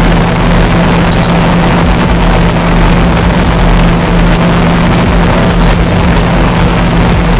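A loud, steady mechanical hum with a low drone, running without a break.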